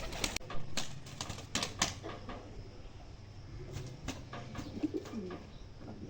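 Pigeons: a quick run of sharp taps and wing flutters in the first two seconds, a few more taps around four seconds, then low cooing about four and a half seconds in.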